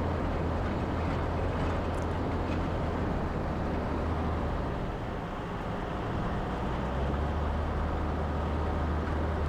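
Four-wheel drive engine running steadily under way, with tyre noise on a gravel track. The engine note eases briefly about halfway through, then picks up again.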